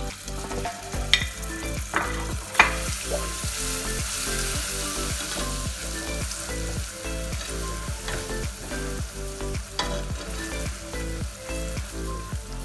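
Hot caramel sizzling in a pan as it is stirred, with a few sharp knocks of the spoon against the pan in the first seconds.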